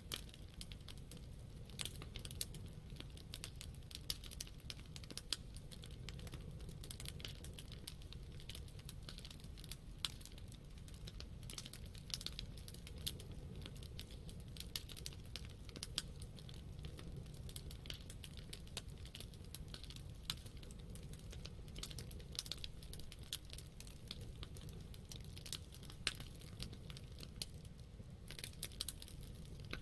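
Wood campfire burning: irregular crackles and sharp pops from the burning wood over a steady low rumble of the flames.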